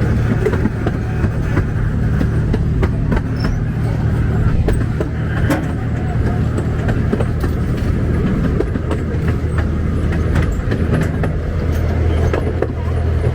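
C.P. Huntington 2 ft narrow-gauge park train running along the track, heard from on board: a steady low drone with scattered clicks and rattles from the wheels and cars.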